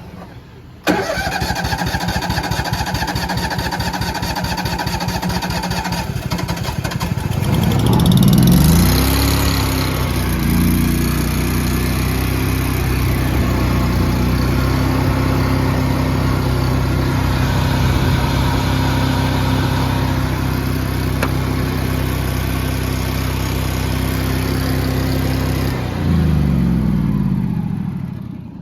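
Miller engine-driven welder being started: the starter cranks the engine for several seconds until it catches, revs up and settles into steady running. Near the end the engine note changes and it shuts down, running to a stop.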